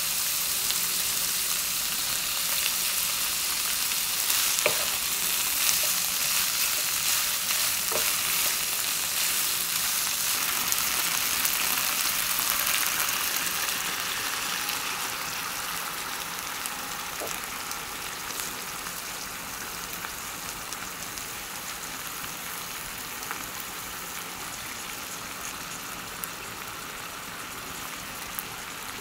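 Pork and napa cabbage sizzling in a hot frying pan, with a few light clicks. About halfway in, a clear liquid is poured into the pan and the sizzle drops to a quieter, steady simmering hiss.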